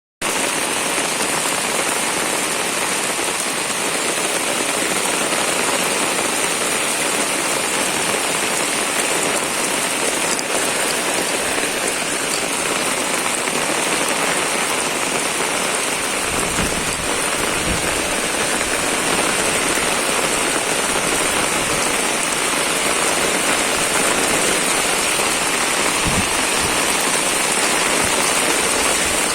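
Heavy rain falling hard, a steady even hiss. A few brief low rumbles come about halfway through and again near the end.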